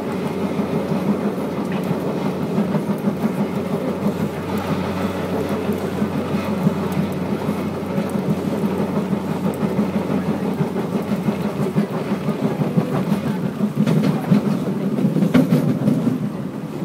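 Singapore MRT train running at speed, heard from inside the carriage: a steady rumble of wheels on rail with a low motor hum that fades out about two-thirds of the way through.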